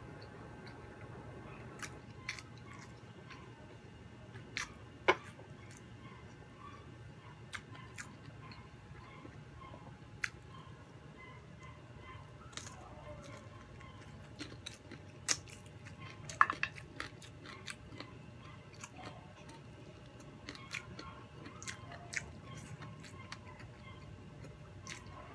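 Close-miked chewing and biting while eating crispy fried chicken and rice by hand: wet mouth sounds with scattered sharp crunches and clicks, the loudest crunches about five seconds and sixteen seconds in.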